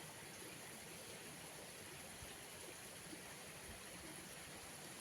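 Faint, steady rush of a small stream flowing, with an even high hiss running over it.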